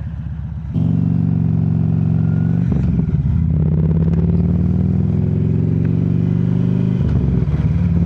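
Harley-Davidson V-twin motorcycle engine idling, then pulling away about a second in and accelerating, with two upshifts where the pitch drops briefly.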